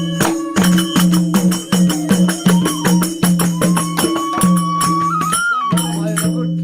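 Fast traditional folk music: rapid jingling, tambourine-like percussion over a pulsing low beat, with a single high held melody note rising and wavering just before the end.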